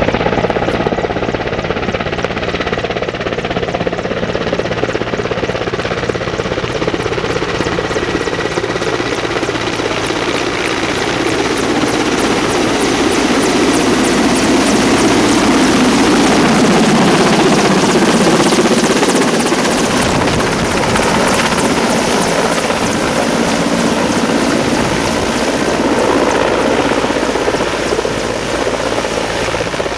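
Helicopter flying close by: steady engine and rotor noise with a fast, even blade beat, growing loudest about halfway through and easing off a little toward the end.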